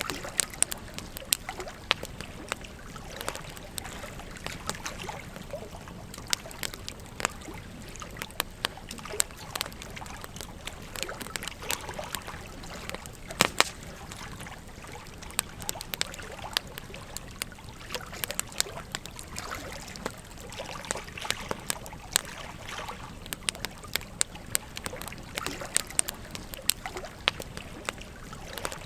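A wood campfire crackling with frequent irregular pops, over the steady flow of a gentle stream. A sharp double pop about halfway through is the loudest.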